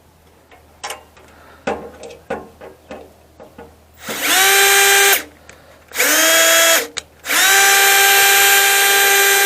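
Power drill driving screws in three bursts: each time the motor's whine rises quickly to speed and holds, the last burst the longest. Before them come a few light clicks and knocks.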